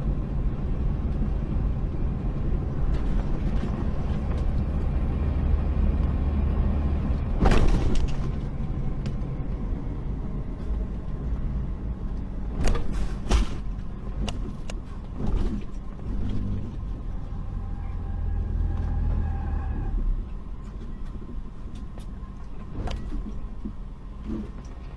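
Car driving: a steady low engine and road rumble, with a few sharp knocks. The loudest knock comes about seven and a half seconds in, and two more come close together about five seconds later.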